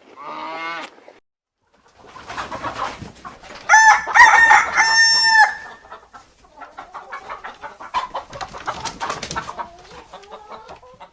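Chickens: a rooster crows once, loud and drawn out, about four seconds in, amid hens clucking and calling.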